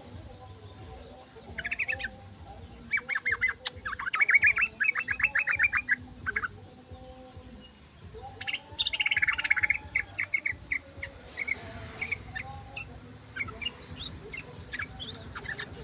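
Yellow-vented bulbul (trucukan) chattering song: bursts of rapid, bubbling notes, loudest around the middle, followed by scattered single notes near the end.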